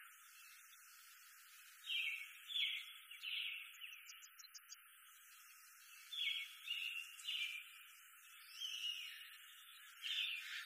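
Birds singing in a forest: groups of short, high chirping notes come every few seconds over a faint steady hiss.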